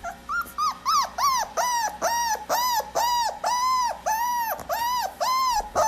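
A dog giving a rapid string of about a dozen short, pitched howl-like calls, roughly two a second. The first few are shorter and higher, and the calls grow longer and more even as the string goes on.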